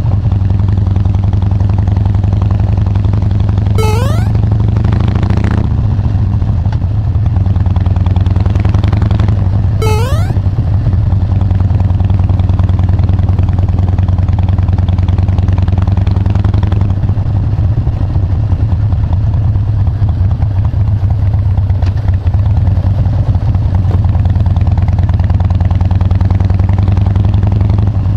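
Harley-Davidson Dyna Wide Glide's V-twin engine and exhaust running steadily with a low, even note. A short rising chirp cuts in twice in the first ten seconds.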